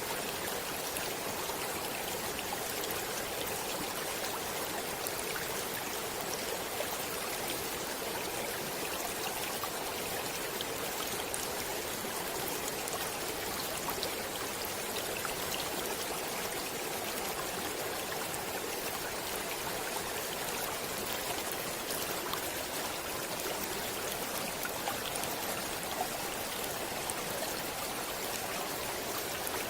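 Stream water flowing steadily: an even, continuous rushing with small scattered splashes.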